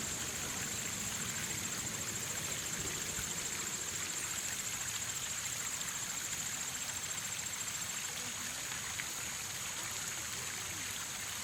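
Shallow creek water trickling and running steadily, with a continuous high-pitched insect trill over it that fades somewhat near the end.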